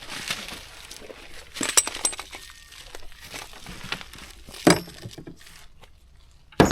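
Oil drain pan being pulled out from under a truck: scraping and clinking, with a few sharper knocks, the loudest at the very end.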